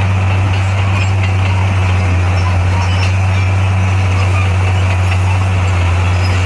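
Bulldozer's diesel engine running steadily with a deep, even drone that holds the same pitch throughout.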